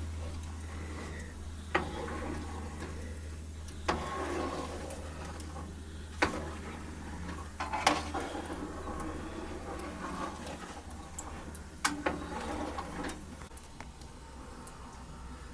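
Scattered knocks and clatters of things being handled, about five of them sharp, over a low steady hum that fades away.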